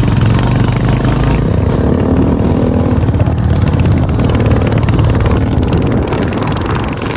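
Motorcycle engine running while riding, with a rushing noise over it; the low engine note changes about a second and a half in.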